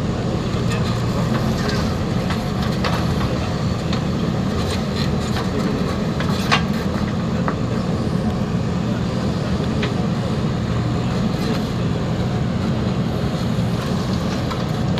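Heavy diesel engine of a backhoe loader or tractor running steadily under work, with scattered clanks and knocks and one sharper click about six and a half seconds in.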